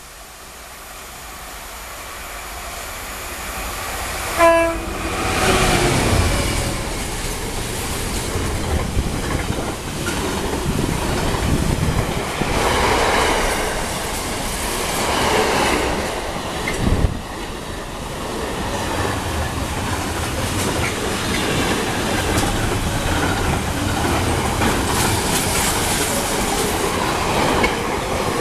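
A train approaching and sounding one short horn blast, then passing close by with loud, sustained wheel and rail noise.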